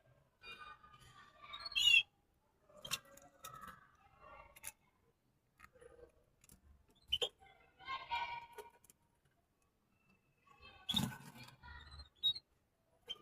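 Small cage birds chirping and twittering in short, scattered calls, with sharp clicks and a louder knock about eleven seconds in from birds moving about the cage.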